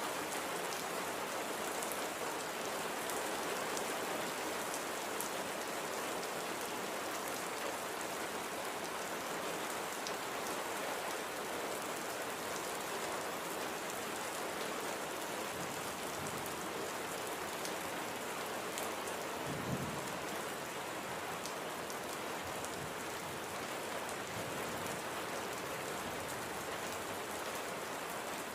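Steady gentle rain falling, an even patter with scattered drop ticks. A brief low thump comes about two-thirds of the way through.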